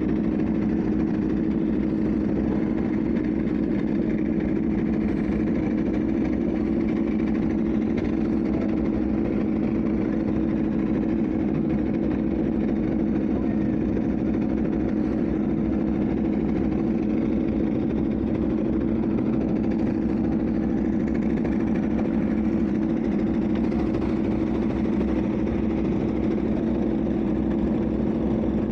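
Aprilia RSV4 1100 Factory's V4 engine idling steadily, with no revs.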